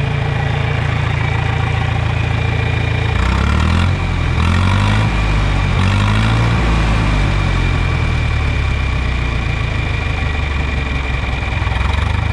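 John Deere 3010 propane tractor's four-cylinder engine idling, with the throttle blipped up and back down about three times a few seconds in before it settles back to a steady idle.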